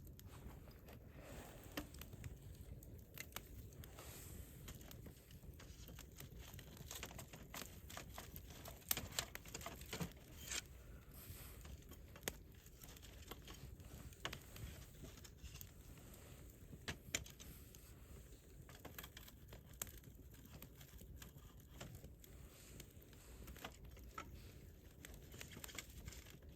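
Wood campfire crackling, with irregular sharp snaps and pops over a low steady rumble; the loudest pops come about nine to ten seconds in.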